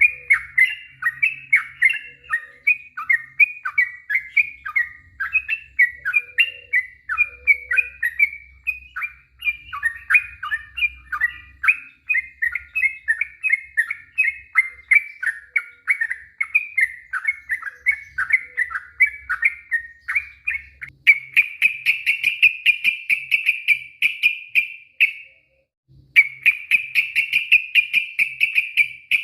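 Sooty-headed bulbul (trucuk) singing a long string of quick, varied chirping notes. About two-thirds of the way in it breaks into a louder, fast rolling trill (the 'ropel') that stops briefly and starts again near the end.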